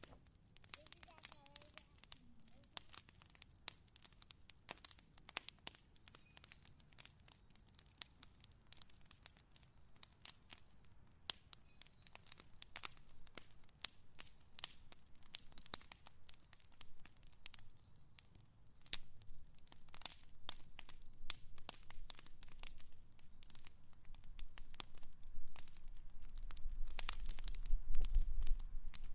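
Wood fire crackling, with irregular sharp pops and snaps. From about twenty seconds in, a low rumble of the flames rises and grows louder toward the end.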